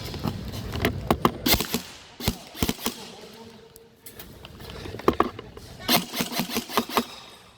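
Clusters of sharp clicks and snaps, in irregular groups about a second in, around two and a half seconds, and from about five to seven seconds. Under the first two seconds there is a low steady hum that fades away.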